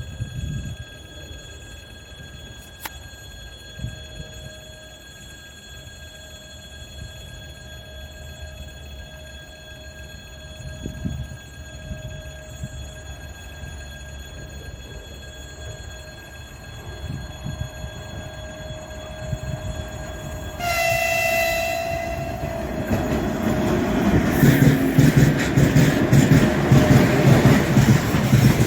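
A 3ES5K "Ermak" electric locomotive hauling a freight train draws near. A low rumble grows slowly louder, the locomotive's horn gives one short blast about three quarters of the way in, and then the heavy rumble of the locomotive and wagons on the rails swells quickly as it reaches the camera.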